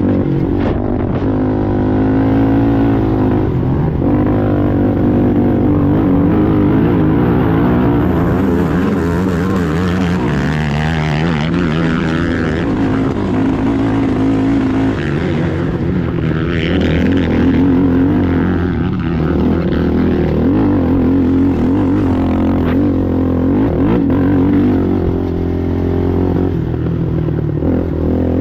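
Racing ATV engine running hard, its pitch rising and falling as the throttle is worked, with stretches of rushing noise over it.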